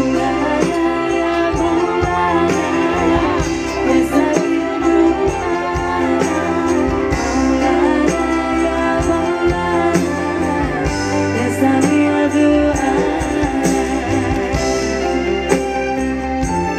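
Live band music with a woman singing over a steady bass and regular percussion strikes.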